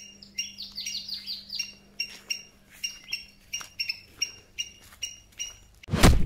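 A bird chirping: a quick run of falling chirps, then short high chirps repeated about two or three times a second. Near the end, a loud sudden burst cuts in.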